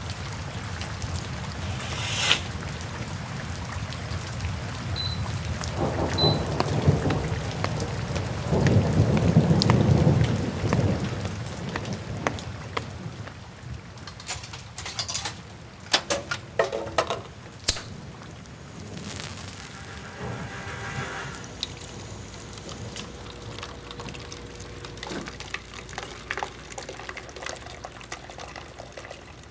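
Steady rain falling, with a low rolling thunder that swells loudest about six to eleven seconds in. Scattered sharp knocks and clicks follow in the second half.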